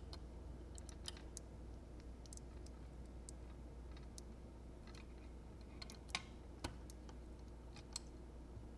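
Faint, scattered clicks and taps from small plastic electronics parts and a wire connector being handled and plugged in, with two sharper clicks a little after six seconds in.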